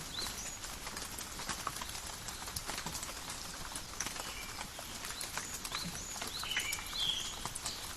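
Steady gentle rain falling in a forest, with a dense patter of drops on leaves and many small sharp drip clicks. A few short, high chirps come through in the second half.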